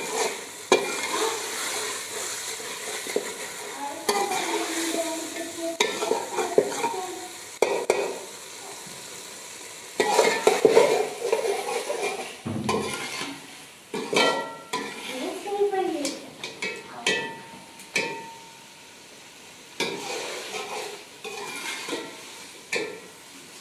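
Birds frying and sizzling in a pan while a metal spoon stirs them, knocking and scraping against the pan again and again.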